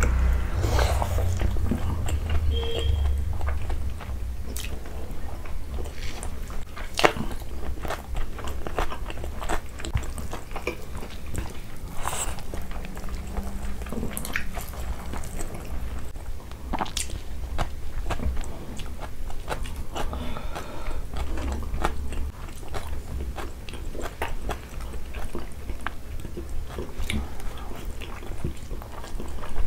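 Close-up eating sounds of two people chewing rice and chicken liver curry eaten by hand: wet chewing with irregular sharp mouth clicks and lip smacks, one of them louder about seven seconds in.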